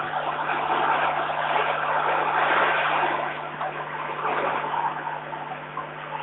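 Strong wind gusting against the microphone, a rough rushing that swells loudest around the middle and eases off after, over a steady low electrical hum.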